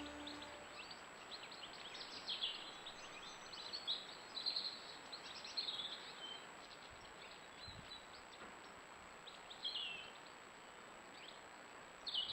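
Small birds chirping and twittering in short, scattered calls, with a faint outdoor background hiss.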